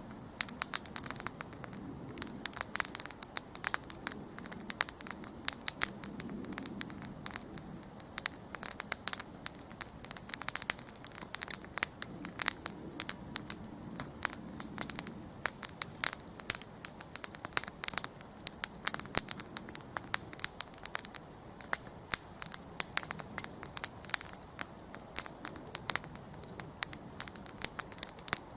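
Wood campfire burning, with a dense, irregular crackle of sharp pops and snaps over a soft low rush of flame.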